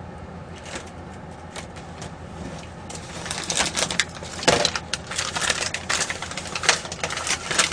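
Dense crackling and clicking close to the microphone, starting about three seconds in and growing louder and busier, over a low steady hum.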